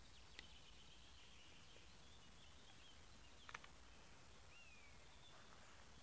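Near silence with faint distant birdsong: thin high whistled notes and one short falling whistle, plus a few soft clicks.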